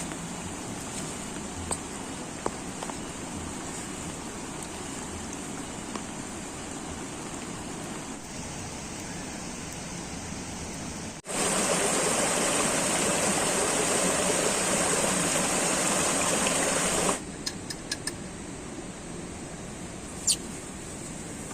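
Steady rushing water, the sound of heavy rain and running water at a campsite. About eleven seconds in, it cuts abruptly to a louder, brighter rush for about six seconds, then drops back, with a few faint taps and a short sharp sound near the end.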